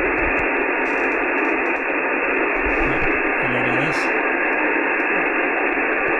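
Steady hiss from an Icom IC-9700 receiving single-sideband on 70 cm, cut off sharply above about 3 kHz by the SSB filter. It is the receiver's noise while the distant station's aircraft-reflected signal has faded into it.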